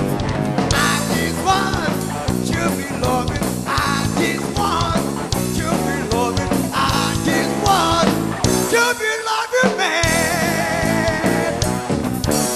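Blues quartet playing live, an instrumental passage with guitar lines bending and wavering over the band. The low end drops out for about a second near the end before the full band comes back in.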